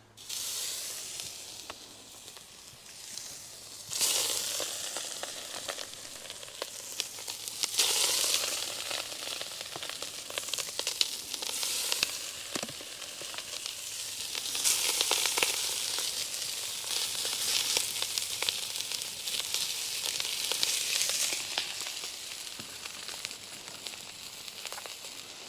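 Food sizzling and frying in Crisco on a hot cast iron griddle, a steady hiss with fine crackles that surges louder about four seconds in, again about eight seconds in, and through the middle stretch.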